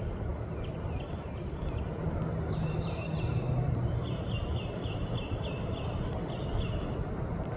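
An animal's call of short high chirps repeated several times a second for a few seconds, over a steady low outdoor rumble.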